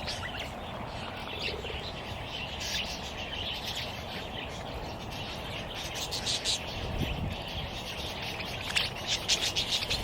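A flock of budgies chattering and chirping, with many short, high, overlapping calls that grow busier near the end.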